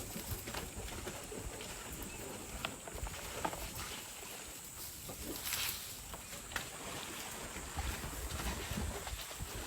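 Elephants wallowing in a mud hole: wet sloshing and splashing with scattered small thuds, and a brief louder splash about five and a half seconds in.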